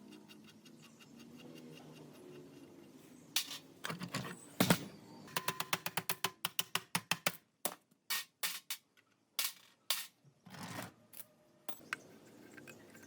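A series of sharp clicks and knocks, like hard objects handled and tapped. The loudest knocks come just before the middle, then a run of quick clicks follows at about six a second for a couple of seconds, and more scattered knocks come later.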